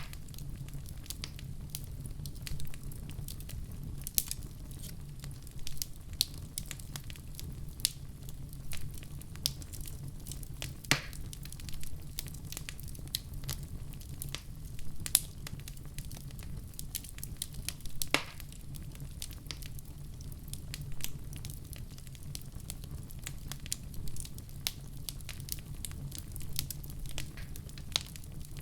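Wood fire burning in a fireplace: a steady low rumble of the flames with frequent irregular crackles and pops, a few of them sharper and louder.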